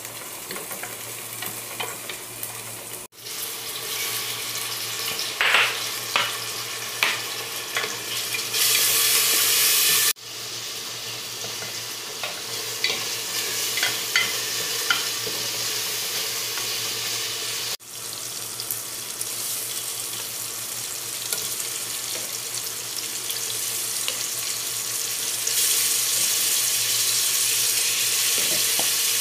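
Food frying in oil in a stainless steel pot, sizzling steadily, with a wooden spoon stirring and scraping against the pot in short knocks. The sizzle grows louder for a second or so about a third of the way in and again near the end, over a low steady hum.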